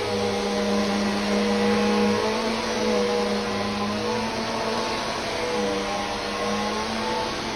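Vacuum cleaner running continuously as it is worked over the floor. Its motor hum wavers slightly in pitch as the load changes, over a steady rush of airflow.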